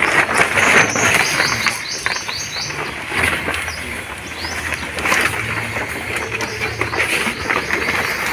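A bird chirping: a quick run of about eight high chirps about a second in, with a few more later, over a louder rushing noise that swells and fades.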